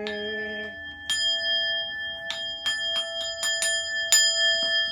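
Buddhist bowl bell struck repeatedly, each strike ringing on. Two spaced strikes are followed by a quickening run of strikes, the loudest about four seconds in, as used to close a Zen sutra service. A chanting voice holds its last note for the first second or so.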